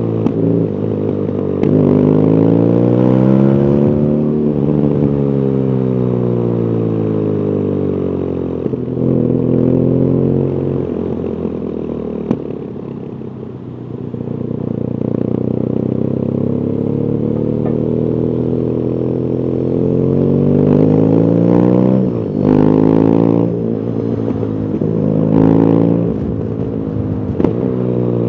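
BMW R nineT Urban GS's stock-exhaust boxer twin on the move, accelerating and rolling off several times so its pitch rises and falls, with a lower, quieter stretch about halfway through. A few sharp clicks cut in briefly.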